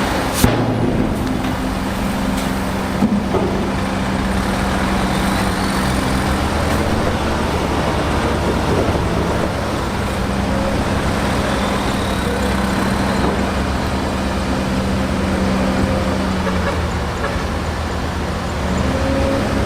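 Heavy diesel earthmoving machinery running steadily under load, with a held low engine note. Two sharp metallic knocks come about half a second and three seconds in.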